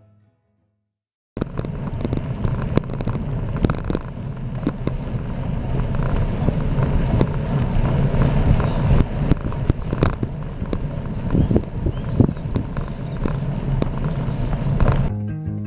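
Bicycle riding noise: a steady rumble with frequent clicks and rattles, starting about a second in after a brief silence and cutting off near the end as music comes back in.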